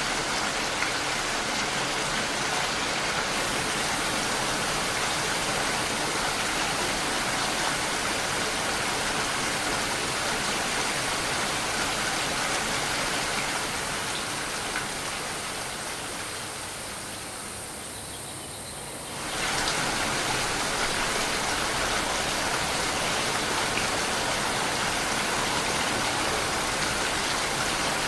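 Steady rain noise, an even hiss of falling rain. About halfway through it fades quieter for a few seconds, then snaps back to full level suddenly, like an edit in a looped recording.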